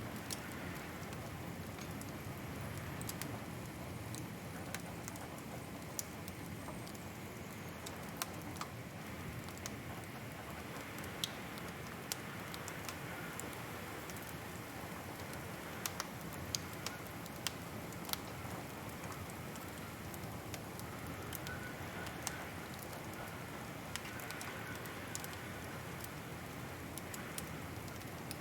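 Wood fire crackling: a steady soft rush with sharp pops and snaps scattered irregularly, a small cluster of louder pops a little past the middle.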